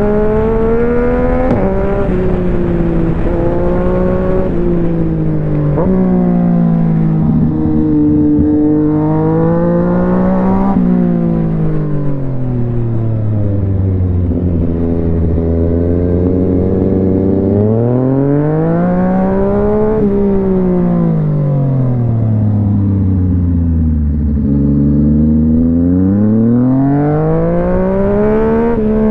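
Yamaha MT-09's three-cylinder engine under way, climbing in pitch through several gear changes with a brief dip at each shift in the first ten seconds, then slowing. It then twice rises and falls again as the throttle is opened and closed.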